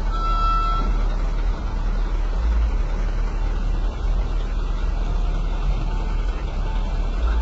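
Heavy truck engine running with a steady low rumble. A short high tone sounds briefly just after the start.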